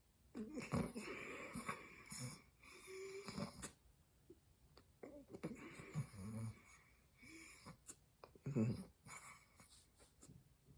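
Close-up mouth sounds of cornstarch being crunched and chewed, coming in irregular bursts with short pauses between them.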